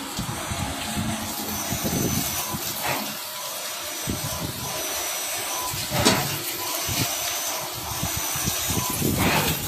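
Toyosk TVT-301S CNC tap/drill center running, a steady rushing machine noise with a faint high whine that comes and goes and a few short louder swells.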